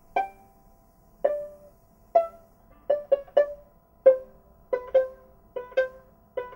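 Plucked string notes played one at a time, about a dozen in a slow, halting melody with a quicker run of three near the middle; each note starts sharply and dies away quickly, like pizzicato.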